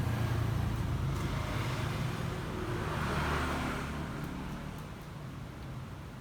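A motor vehicle passing by: a low engine rumble with a swell of road noise that rises, peaks about halfway through and fades away.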